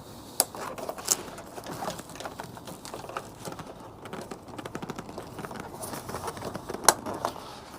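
Motorcycle tank bag being handled: rustling of its fabric and elasticated straps, with a few sharp clicks from its plastic clips, one at the start, another about a second in and a louder one near the end.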